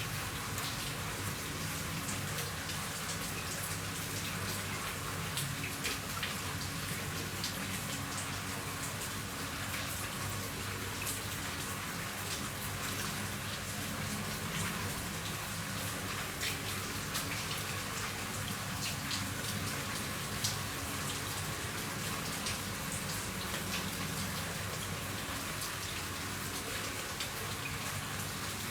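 Rain falling steadily on a roof, an even patter with many individual drops ticking sharply through it.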